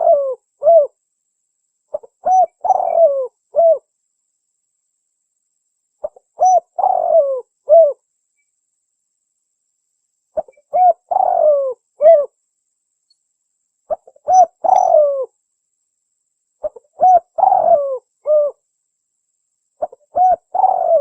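Spotted dove cooing: a phrase of short coos ending in a longer, falling coo, repeated about every three to four seconds.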